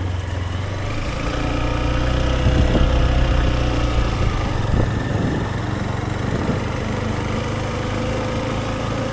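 Motorcycle engine running steadily at low speed, a little louder for a couple of seconds near the start.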